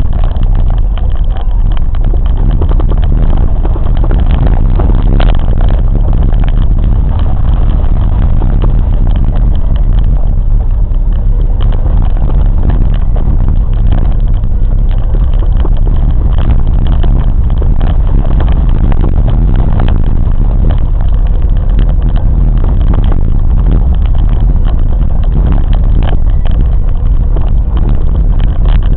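Moving train's running noise: a loud, steady rumble with many small knocks throughout.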